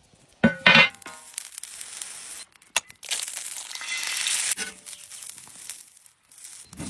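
Crinkling and crushing noises. A sudden loud rustle comes about half a second in, and a hissing stretch runs from about three seconds to four and a half.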